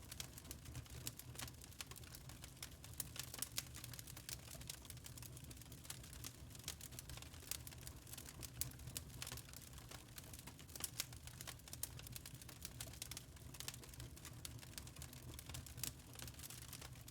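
Wood fire in a fireplace crackling: irregular pops and snaps over a low steady rumble.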